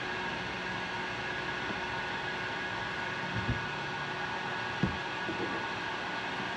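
Steady whir of a small fan motor with a constant hum, and light knocks about three and a half and five seconds in.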